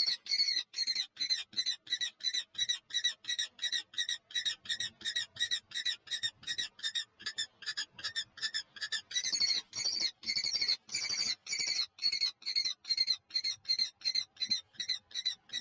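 Nestling birds begging in the nest: short, high chirps repeated fast and evenly, about three to four a second, louder for a few seconds past the middle.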